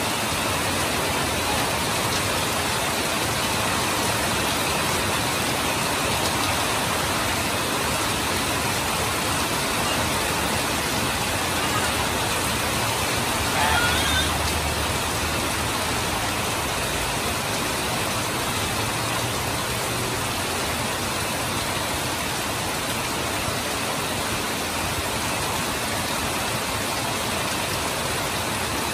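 Heavy rain falling steadily, with water pouring off the roof edge in streams. A brief, slightly louder sound rises out of it about halfway through.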